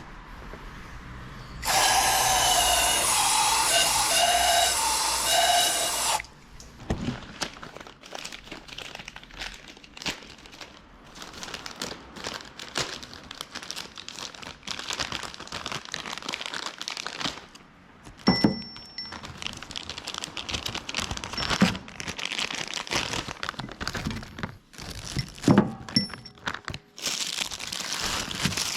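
A power tool runs for about four seconds, starting about two seconds in, followed by scattered clicks, knocks and scraping of hand work with tools and parts.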